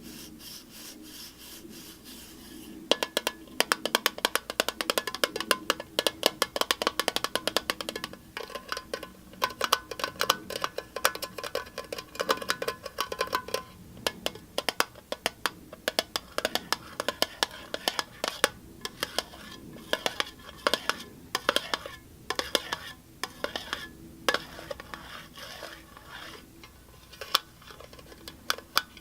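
Fast tapping on a hard object, many taps a second, beginning about three seconds in after a quieter start, some of the taps ringing with a faint pitch. About halfway through, the tapping thins out to scattered, sharper taps.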